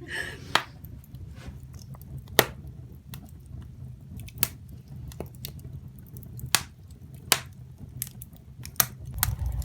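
Firewood burning in an open fireplace, crackling with irregular sharp pops, several of them loud, over a low steady rumble.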